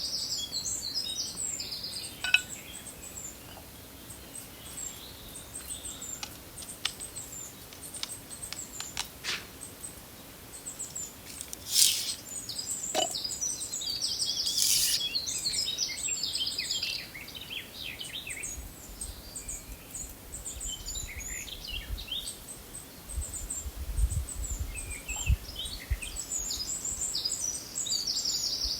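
Songbirds chirping and singing in short high phrases throughout, with a few sharp light clicks or knocks and, in the latter half, a low rumble.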